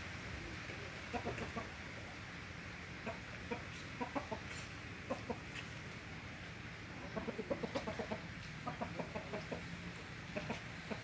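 A bird calling with short, low notes in quick runs, several groups of calls with pauses between them.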